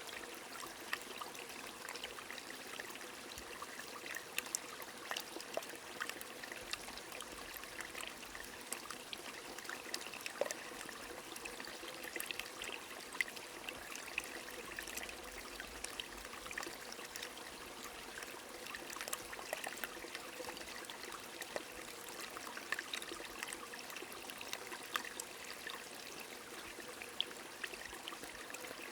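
Steady rain pattering, with a stream trickling and splashing underneath; scattered sharp drops tick through a continuous hiss of water.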